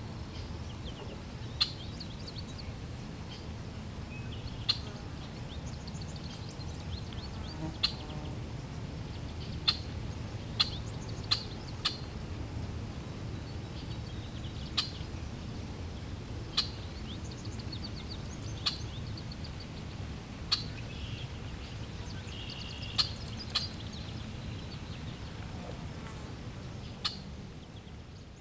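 Water flowing with a steady low rush, while small birds give short, sharp chirps every second or two at irregular intervals. The whole sound begins to fade out near the end.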